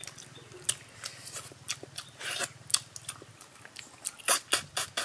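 Two people biting and chewing sweet-glazed chicken heads: wet smacking and many short sharp crunches and clicks. A low steady hum runs underneath for the first three seconds or so.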